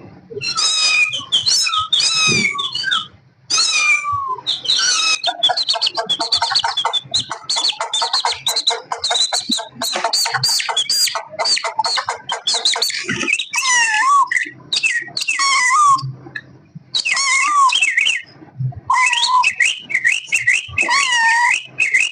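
Kittens meowing over and over, high calls that bend up and down, with a baby chick peeping fast in the middle stretch.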